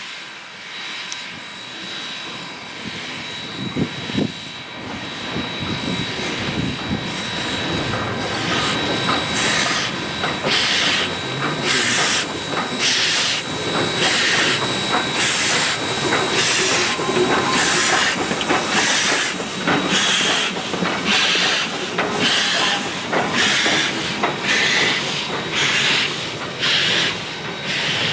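Western Pacific 165, an Alco 0-6-0 steam locomotive, hissing steam. About a third of the way in, exhaust chuffs begin at roughly one a second as it works slowly.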